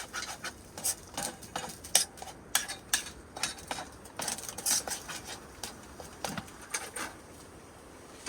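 A utensil scraping and clinking against a pan, stirring, in a quick irregular run of clicks and scrapes that stops about seven seconds in.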